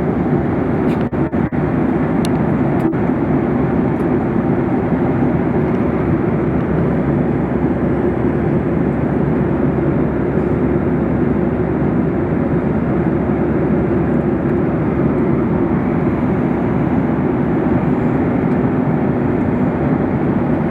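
Airliner cabin noise in flight: the steady hum of the jet engines and rushing air, with a few brief clicks and dropouts between about one and three seconds in.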